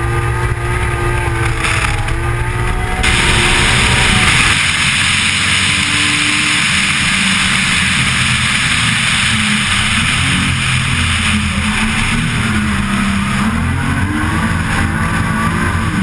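Opel Manta drift car's BMW M3 engine running hard on track, its pitch rising and falling with the throttle. From about three seconds in a strong wind rush over the car-mounted camera's microphone covers much of it.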